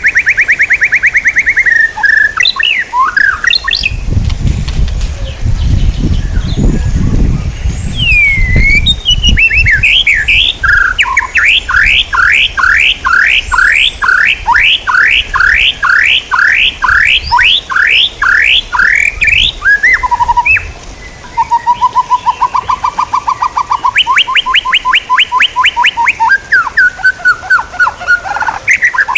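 A songbird singing loudly in varied phrases: quick trills, then a long series of repeated upward-sweeping notes, about two a second, from about 11 s to 19 s, and further trills near the end. A low rumble sits under the song from about 4 s to 10 s.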